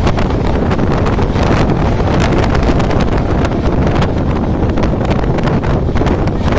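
Wind rushing over the microphone on a fast-moving express train, over the train's steady running rumble, with scattered sharp clicks and knocks.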